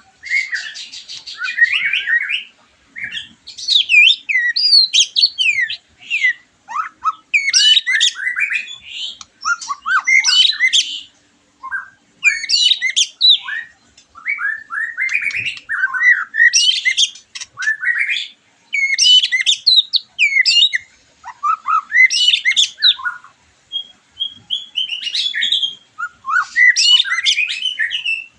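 White-rumped shama singing loud, varied phrases of sliding whistles, trills and fast chattering notes. Each phrase lasts a second or two, with short pauses between.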